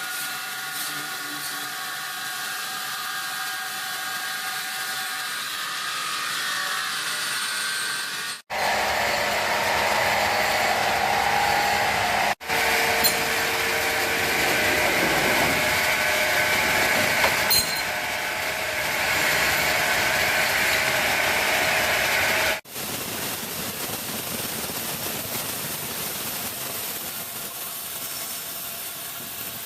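Sawmill machinery running, with a steady machine whine that breaks off and changes abruptly three times. The loudest stretch is in the middle, a dense, louder noise typical of a saw at work.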